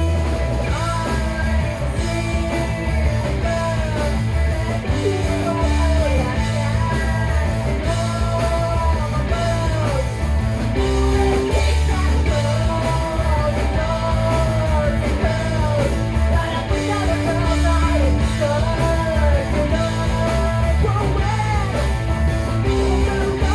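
Rock band playing live: electric guitar, a pulsing bass and drums, with a sliding melody line riding on top.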